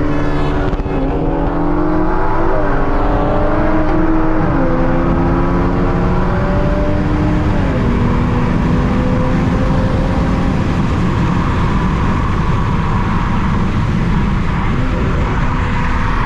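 Turbocharged car engine under hard acceleration, its pitch climbing and dropping back several times as it shifts up through the gears, then holding steadier. Heavy wind and road noise run underneath.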